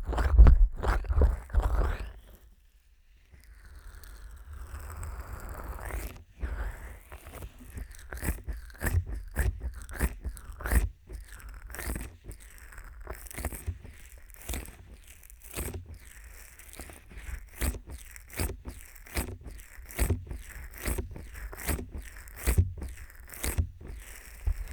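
Fingers working on the silicone ears of a 3Dio binaural microphone slicked with petroleum jelly: close, crackling contact sounds and scrapes. They break off into a short lull about two seconds in, give way to a softer rubbing, then run on as irregular sharp clicks, two or three a second.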